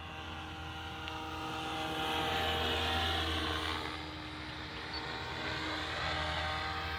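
Electric Devil 380 RC helicopter in flight, a steady motor and rotor whine. It grows louder and softer as the helicopter flies a figure-eight past: louder around two to three seconds in, softer about four seconds in, then rising again.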